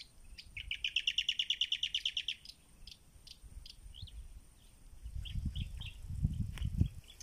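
A bird sings a fast, even trill of about ten high notes a second, lasting about two seconds, followed by scattered short chirps. Low rumbling bumps come about five to seven seconds in.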